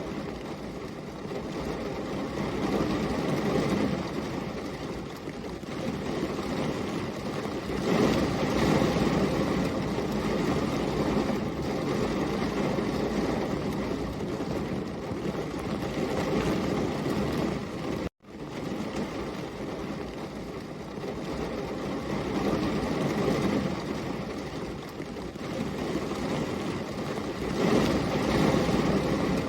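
Night-rain white-noise track: a steady rushing noise, fuller and lower than a hiss, swelling and easing every few seconds. It cuts out for an instant about 18 seconds in and comes straight back.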